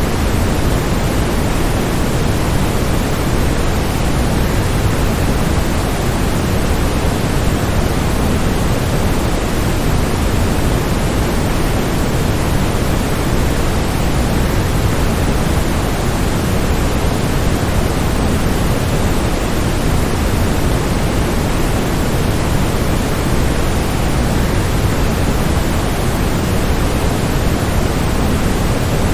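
Waterfall rushing: a steady, even roar of falling water, heaviest in the low end and unchanging throughout.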